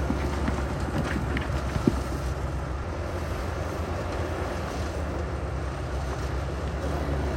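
Heavy earthmoving machinery's diesel engine running steadily with a low rumble, with a sharp knock about two seconds in.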